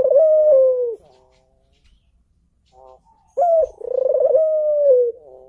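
Ringneck dove cooing: a long coo dies away about a second in, and after a pause a second coo begins with a short note followed by a long drawn note.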